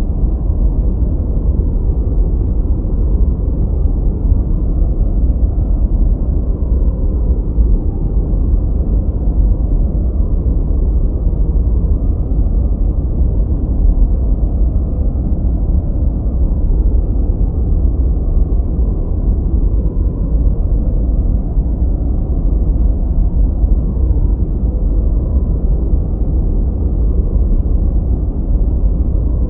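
Steady masking noise of the kind sold as white noise for study and sleep, deep and muffled, with almost no high end. It is unchanging throughout, with no rhythm, tones or events.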